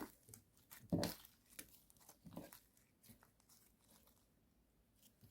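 Cookies-and-cream slime being pressed and squeezed by hand, giving faint, scattered crunchy crackles and clicks. The loudest squish comes about a second in, a smaller one at about two and a half seconds, and then it thins to a few light ticks.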